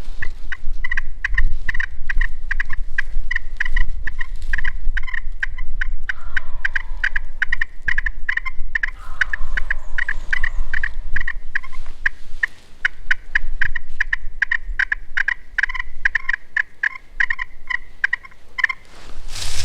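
Eastern wild turkeys calling at close range: a rapid, continuous run of short, sharp gobbling and clucking notes lasting nearly the whole time.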